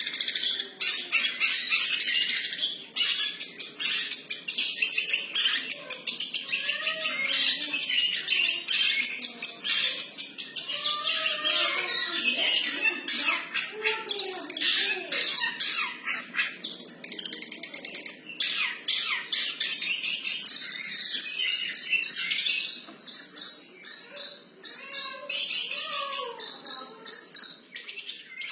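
Long-tailed shrike (cendet) singing freestyle: a continuous stream of rapid, scratchy chattering notes, mixed with sliding whistled phrases.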